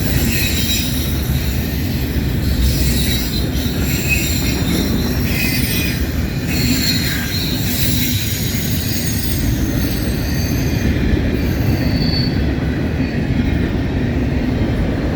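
Wheels of a long double-stack intermodal freight train rolling past at track speed. A steady low rumble of steel wheels on rail, with high-pitched wheel squeal coming and going.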